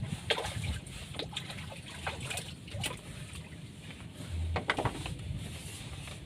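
Water splashing and sloshing in irregular short bursts over a low steady rumble.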